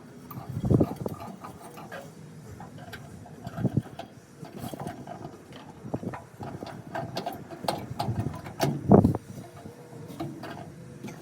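A 3/4-inch metal conduit flag pole being slid into stainless steel hose clamps: irregular clinks and knocks of metal on metal, with louder thumps about a second in, near four seconds and near nine seconds.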